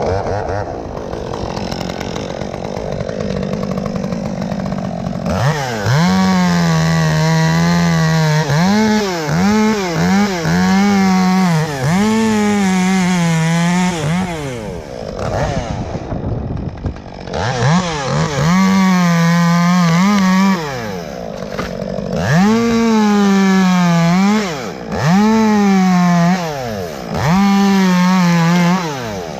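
Two-stroke chainsaw running low for about five seconds, then opened to full throttle and cutting into elm wood in repeated bursts, its pitch dipping under load and climbing again between strokes. There is a pause about halfway through, then several more cutting bursts.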